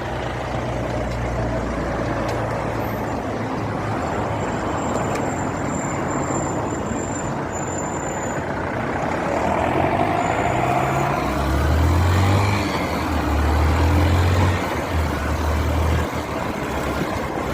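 Storm wind and heavy rain, with gusts rumbling low against the microphone. The gusts grow stronger about ten seconds in.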